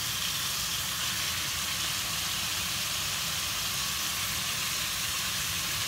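Chicken breasts frying in butter and vegetable oil in a skillet: a steady sizzle over a steady low rumble.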